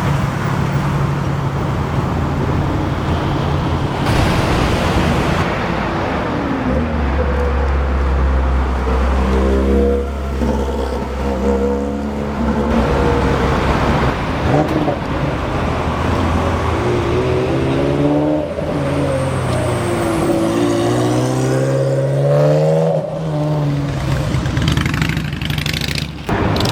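Sports car engines revving and accelerating, their pitch climbing and falling several times through the middle and later part, over a steady low engine drone and traffic noise.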